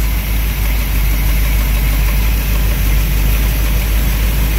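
1965 Ford Mustang engine idling steadily, a low, even hum, during a charging-system test.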